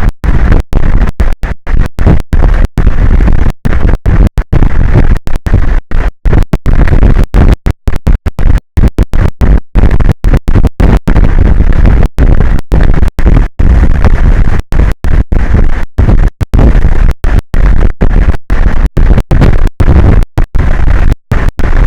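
Loud, distorted wind noise overloading an outdoor microphone, with a heavy low rumble, cut by frequent brief dropouts where the sound drops out completely.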